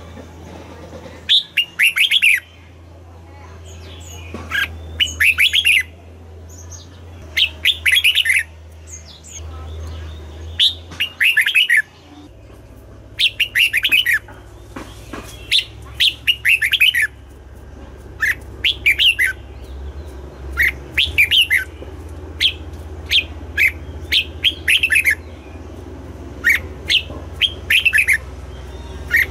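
Red-whiskered bulbul singing, short bright phrases of quick sliding notes repeated every second or two.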